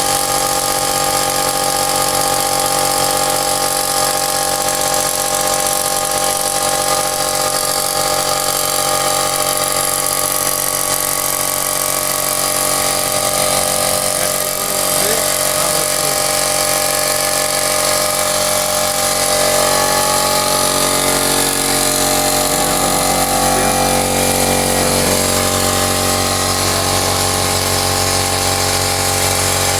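Rigo RT550 compressor machine running steadily under its electric motor, a constant hum with a hiss over it; the low hum grows heavier about two-thirds of the way in.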